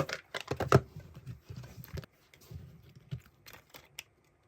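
Small items being handled and packed into a bag: an irregular run of clicks, taps and rustling, busiest in the first second, with a few sharper clicks later.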